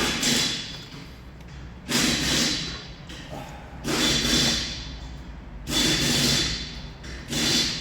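A series of heavy thuds, about one every two seconds, each with a short ringing tail: blows on metal engine parts as a part is worked loose.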